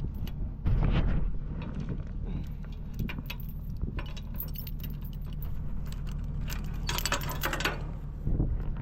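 Kubota SVL75-2 skid steer's diesel engine running steadily, with scattered metallic clinks and rattles and a short burst of jangling about seven seconds in.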